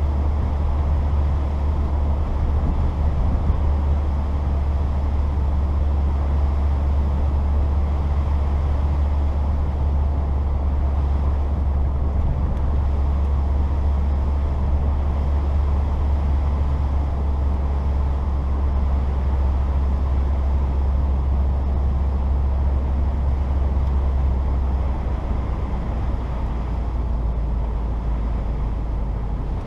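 1994 Saturn SL2 driving, heard from inside the cabin: the engine and road noise make a steady low drone, which drops slightly in pitch and level about 25 seconds in.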